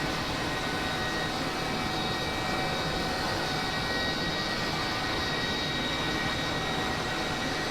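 Steady engine noise of an aircraft kind: an even rushing hum with a few faint, steady high whining tones, unchanging throughout.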